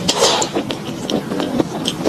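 Close-miked chewing of fried enoki mushrooms: irregular crunchy bursts and wet mouth clicks, with a denser crunch just after the start.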